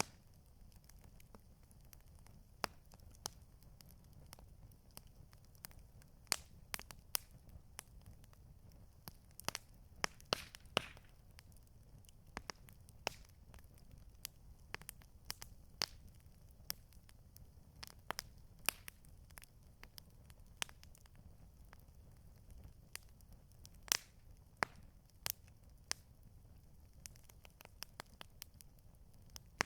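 Campfire crackling: burning wood giving irregular sharp pops and snaps, sometimes several in quick succession, over a faint low rumble.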